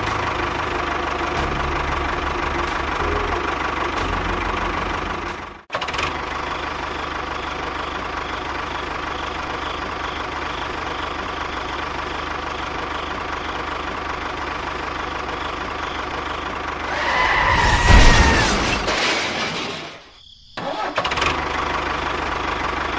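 A small engine running steadily. There is a sudden break about six seconds in, a louder surge with a wavering whine from about seventeen to nineteen seconds, and a brief cut-out shortly after.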